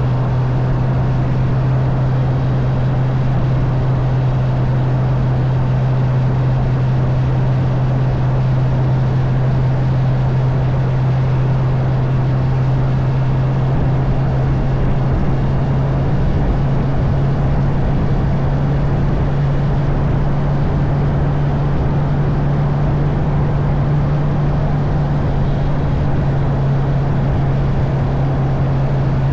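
Honda CB650R's inline-four engine running steadily at cruising speed, its drone holding a near-constant pitch that rises slightly partway through, over a steady rush of wind and road noise.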